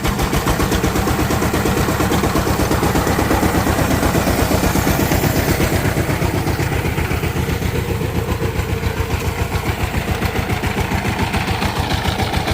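Diesel engine running steadily just after it has started, with a fast, even firing beat.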